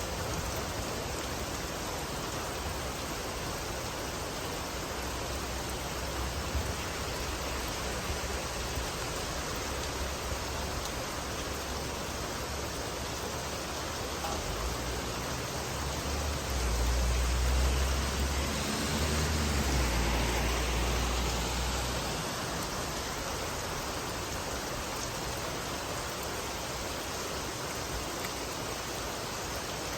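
Steady rain falling, an even hiss. About halfway through, a low rumble swells up, holds for several seconds and fades.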